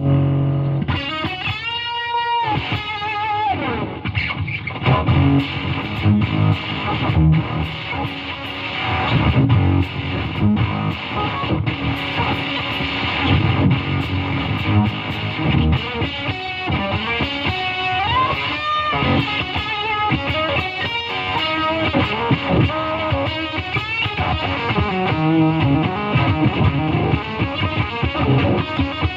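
Electric guitar played through a Fulltone Octafuzz with its octave-up feature engaged, into a Fender Super Champ amp: fuzzy, distorted single-note lines and chords with an added upper octave. A held note with vibrato rings about two seconds in.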